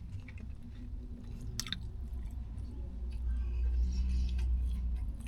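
Chewing a turkey, ranch and bacon sub sandwich, with scattered small mouth clicks.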